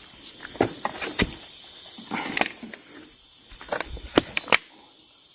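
Steady high-pitched chorus of night insects, crickets by the sound of it, with scattered clicks and rustles of plastic bags and containers being handled.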